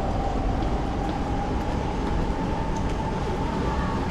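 City street in rain and strong wind: steady traffic noise with a low rumble, and a held whining tone from a passing vehicle.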